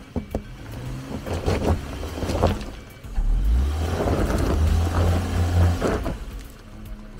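Subaru Forester SJ crawling over a rocky off-road track: its engine labours at low speed, then revs up about three seconds in and holds there for a few seconds under load as the car climbs a rock step, with stones knocking and crunching under the tyres.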